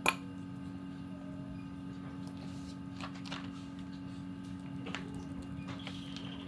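Steady low machine hum in a workshop, with a sharp metallic click just after the start and a few faint knocks later on.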